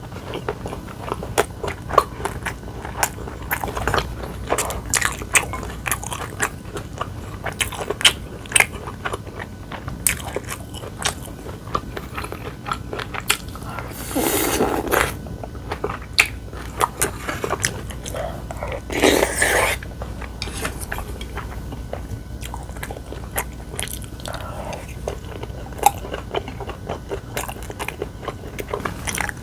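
Close-miked eating: biting and chewing with many short, sharp crunchy clicks. Twice near the middle, a longer, louder noisy sound of about a second breaks in.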